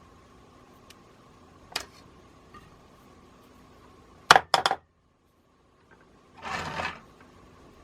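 Bench handling noises: a light click, then three sharp knocks in quick succession about halfway through, and a short noisy rush lasting about half a second near the end.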